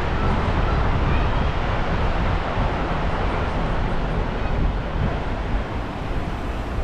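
Steady loud rushing noise with a heavy low rumble and no distinct events, dipping slightly near the end.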